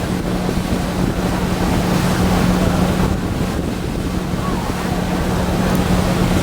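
Tour boat's engine running with a steady hum, under wind buffeting the microphone.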